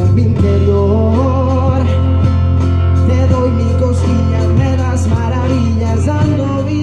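Live band music: an instrumental passage with guitar over a steady held bass.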